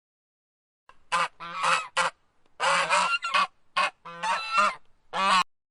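Goose honking repeatedly: about eight short, nasal honks in irregular bursts, starting about a second in and stopping just before the end.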